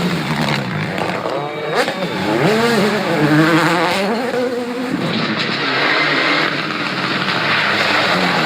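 Rally car engine revving, its pitch swinging up and down as the car backs up and gets going again, over a steady rush of noise.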